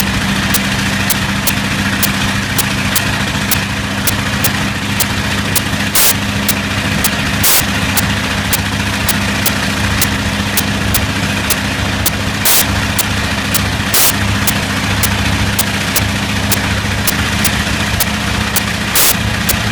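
Bristol Hercules 14-cylinder sleeve-valve radial engine running steadily at low speed, with a faint regular ticking about twice a second. Every few seconds there is a louder crack, the sign of a slight misfire.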